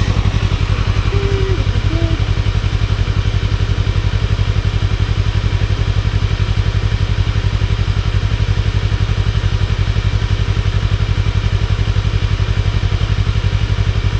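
Motorcycle engine idling steadily: a fast, even firing pulse that holds unchanged, with no revving.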